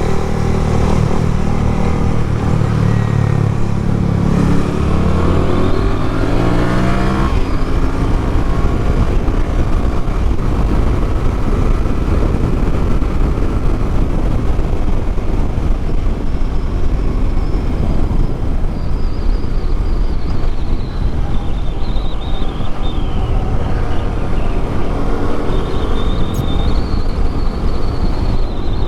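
Yamaha MT-07's parallel-twin engine accelerating under load, rising in pitch for about the first seven seconds. After that, wind noise over the microphone at riding speed mostly covers the engine, which climbs again near the end.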